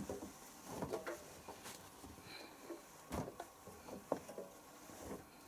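Laundry being loaded by hand into a front-loading washing machine drum: faint, irregular rustling with light knocks every second or so.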